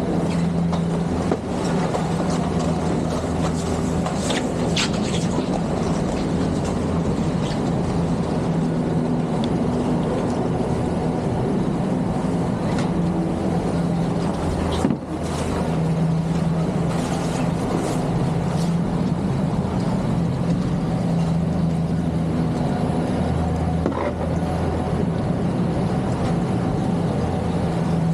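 Steady mechanical hum and rushing noise of a moving chairlift, with a few faint clicks and a short jolt about halfway through.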